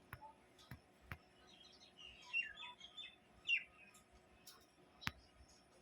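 Myna giving a short run of chirps and falling whistled notes around the middle, with a few sharp clicks before and after.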